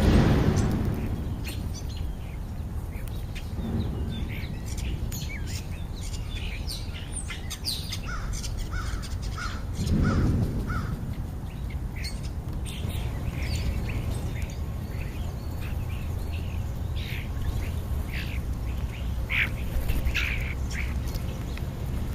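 Birds calling with scattered short chirps and calls, including a run of five or six evenly spaced short notes about eight seconds in, over a steady low rumble. A louder low whoosh comes right at the start and again about ten seconds in.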